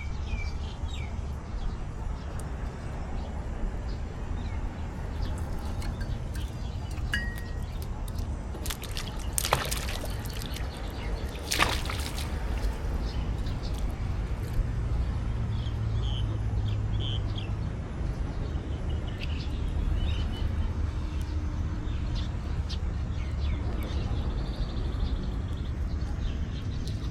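Outdoor ambience: a steady low rumble with scattered short high chirps, and two short sharp noises about two seconds apart near the middle.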